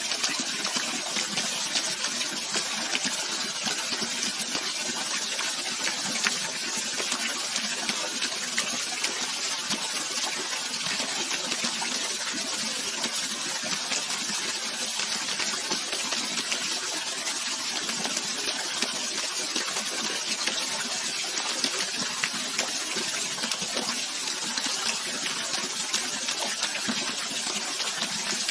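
Running water rushing steadily, an even hiss without a break, with many small brief spikes of splash.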